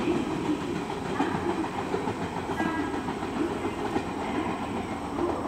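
A 113-series electric train pulling away into the distance, heard as a steady rumble of the train running on the rails.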